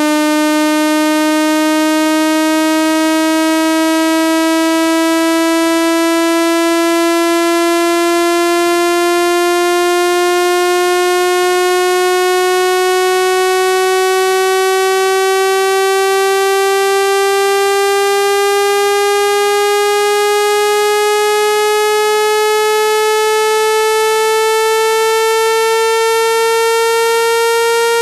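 Synthetic speaker-cleaning tone: a single electronic tone with many overtones, gliding slowly and steadily upward in pitch.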